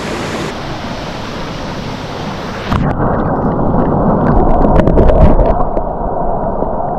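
Steady rush of flowing creek water. A little under three seconds in, the sound suddenly turns muffled and heavier, with low rumbling and a run of sharp knocks.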